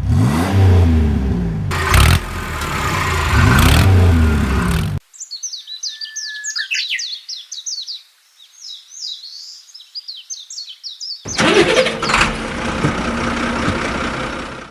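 A vehicle engine revving, its pitch sweeping up and down, for about five seconds. It cuts out suddenly to leave birds chirping alone, and then a loud engine-like rumble with a steady hum comes back for the last few seconds.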